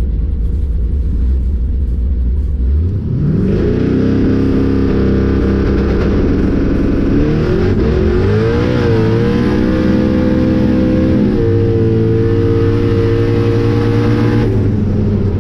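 Boosted no-prep drag car's engine making a full-throttle pass: it revs up sharply about three seconds in and holds high, its pitch wavering around eight to nine seconds in, then drops off near the end. The tyres spin the whole pass, so the driver has to pedal it.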